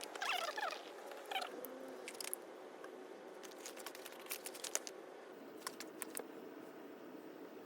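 Small wood fire crackling, with irregular sharp pops scattered through. A brief squeaky chirp sounds near the start.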